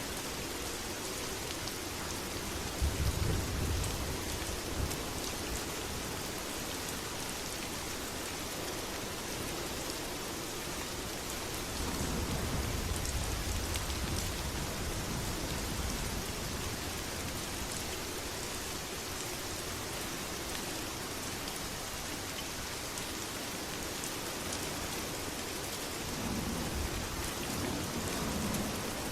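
Steady heavy rain, with low rolls of thunder about three seconds in, again around twelve seconds in, and near the end.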